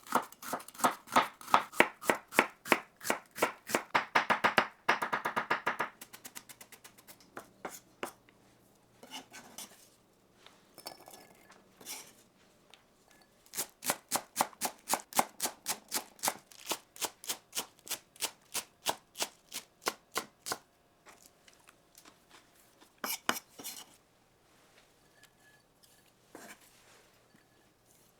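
Kitchen knife chopping food on a cutting board in quick, even runs of about four strokes a second. The chopping pauses for several seconds about a quarter of the way in, resumes for another long run, then ends in a few scattered strokes.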